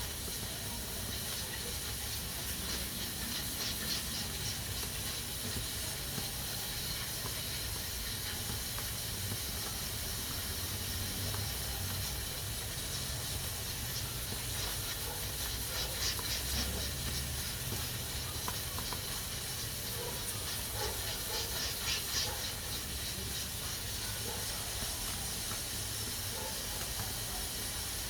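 Pressure cooker hissing steadily as steam escapes through its valve, with a few brief louder, fluttering surges.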